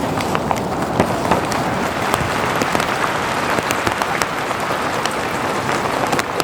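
Steady rain with many small drops tapping on a nearby surface.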